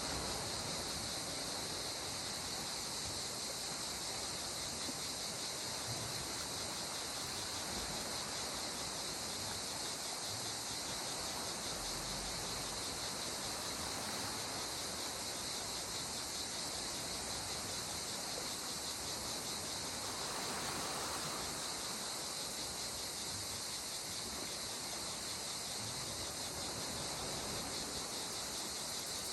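Steady, dense high-pitched chorus of insects with a fast shimmering pulse, over a soft even wash of calm sea water; the water swells slightly about two-thirds of the way through.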